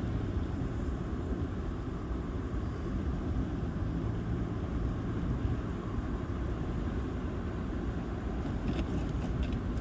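A car driving, with a steady low rumble of engine and road noise. A few faint ticks come near the end.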